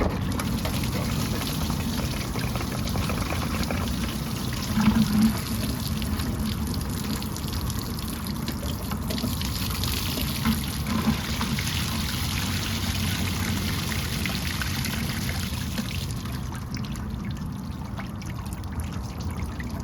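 Liquid pouring and trickling steadily as fluid drains out of the truck's drivetrain onto the ground, with a few brief louder splashes.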